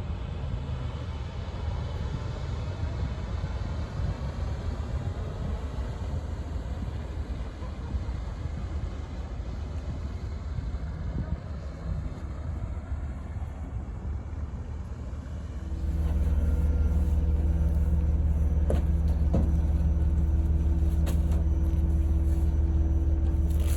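Motor ship's engine running with a low rumble under a steady hiss. About sixteen seconds in it gets louder and turns into a steady low drone.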